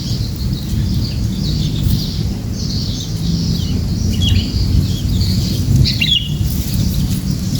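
Small birds giving many short, high chirps over a steady low rumble, with a sharper falling call about six seconds in.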